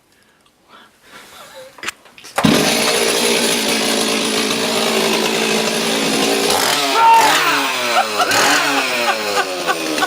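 Chainsaw started after a couple of small knocks, catching abruptly about two and a half seconds in and running loudly, then revved up and down again and again in the second half.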